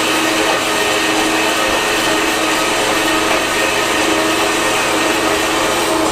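An electric power tool motor running steadily at full speed, a constant whine over a hissing noise, with no let-up.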